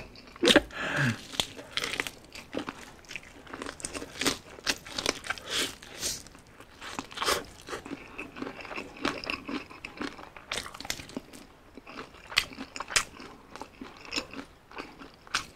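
Close-up eating of crispy fried chicken: many irregular crunches as the breaded skin is bitten and chewed, with small wet mouth sounds.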